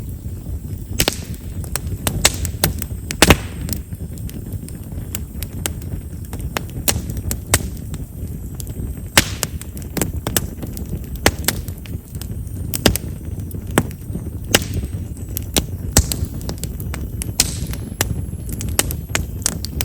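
Chestnut-wood fire crackling: frequent sharp pops and snaps, several a second and irregular, over a steady low rumble. Chestnut's large vessels make it a wood known for popping as it burns.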